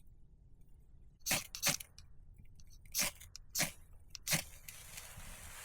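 Five sharp scraping strikes, a second or so apart, lighting a fire-starter plug. After the last strike a soft steady hiss sets in as the plug catches.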